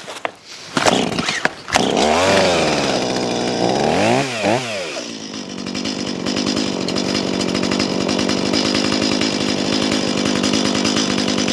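Two-stroke chainsaw starting up, with a few sharp knocks in the first two seconds. It catches about two seconds in, revs up and down, blips twice more, then settles into a steady idle.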